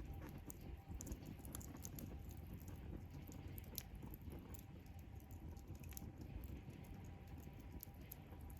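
Wood campfire crackling: irregular small pops and snaps over a low, steady rumble of the burning fire.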